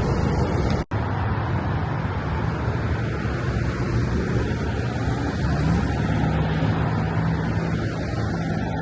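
Steady road traffic noise, with an engine hum that rises and then holds from about halfway through. A very brief dropout about a second in.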